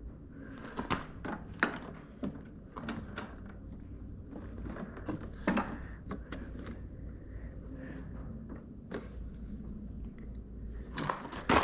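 Irregular light clicks, taps and knocks of hands handling parts on a lawn mower, with a louder burst of knocks near the end.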